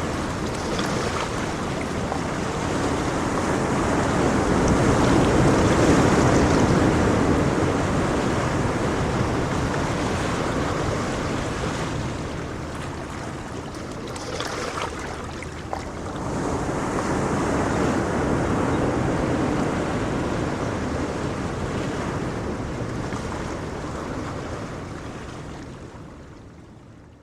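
Ocean surf: a steady wash of waves that slowly swells and eases, then fades out near the end.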